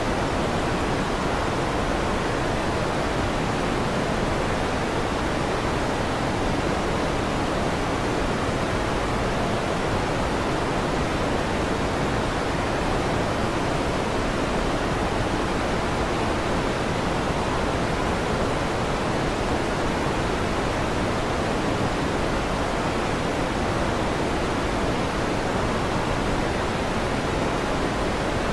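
Electric fan running with a steady, even whooshing noise, deep and dull rather than hissy, with no change in level.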